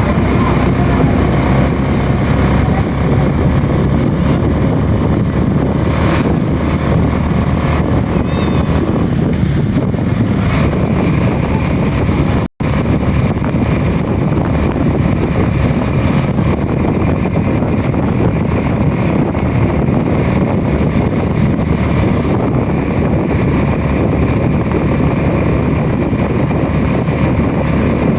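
Heavy rain falling in a loud, steady hiss, with wind rumbling on the microphone. The sound cuts out for an instant about twelve seconds in.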